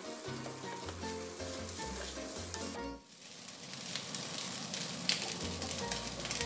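Fried rice sizzling in a nonstick pan as it is stirred with a wooden spatula, over background music. The sound drops away briefly about three seconds in, then the frying resumes.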